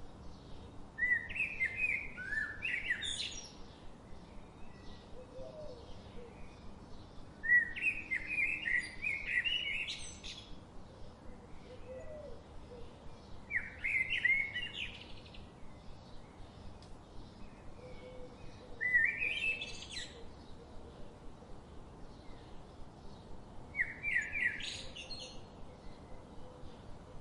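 A songbird repeating a short song phrase five times, about every five to six seconds, each phrase ending in a rising high flourish, over a faint steady background hiss of forest ambience.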